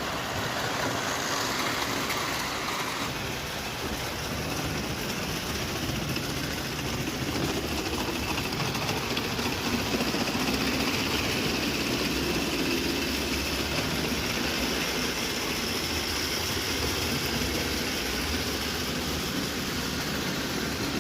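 Ernst Plank 0 gauge live steam toy locomotive running, a steady mechanical noise.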